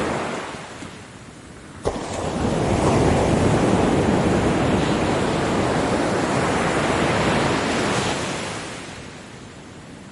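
Ocean waves breaking on a beach: one wash fades out, then a wave crashes about two seconds in and its loud surf runs for several seconds before it dies away near the end.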